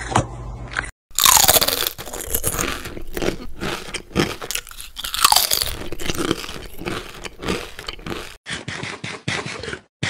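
Loud, irregular crunching and chewing of snack food, such as apple bites and then potato chips. A falling whistle-like glide sounds twice over the munching, about a second in and again about five seconds in.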